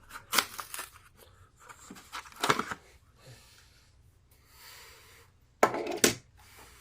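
Plastic and cardboard toy packaging being handled, crinkling and rustling, with a few sharp crackles.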